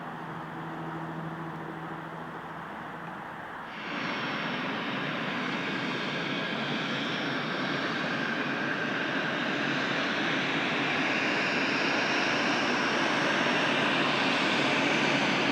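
Jet aircraft engines, a steady roar that jumps in level about four seconds in and then grows steadily louder, with a thin high whine over it.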